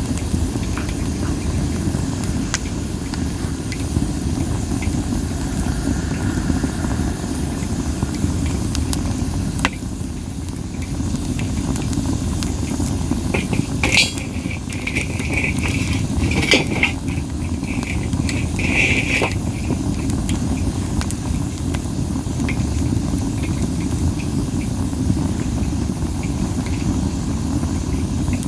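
Masaki (Japanese spindle tree) wood burning in a campfire, under a steady low wind rumble, with scattered pops and crackles. About halfway through, a high hissing whistle rises out of the fire for several seconds, typical of moisture steaming out of the burning wood.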